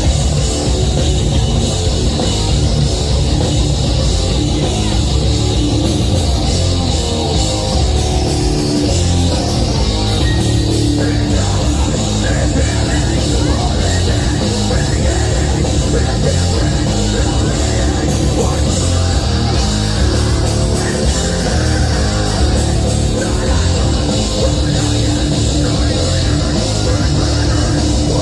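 A heavy metal band playing live at full volume: distorted electric guitars, bass and drum kit, heard as a steady loud wall of sound.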